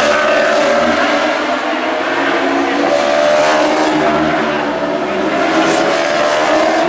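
Racing superbike engines at high revs, several machines sounding together, their pitch rising and falling as they pass under throttle.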